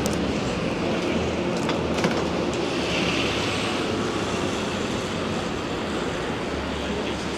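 Steady hiss of a wet town street at night: rain and tyre noise blending into an even wash, with a few faint clicks in the first two seconds.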